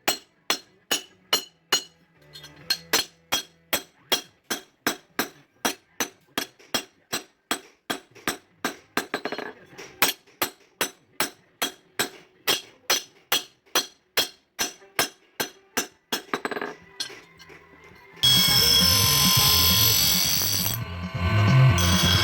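Hand hammer striking steel on an anvil, a sharp ringing blow about twice a second, while a truck leaf spring is forged into a golok blade. The hammering stops about 16 seconds in, and loud music starts a couple of seconds later.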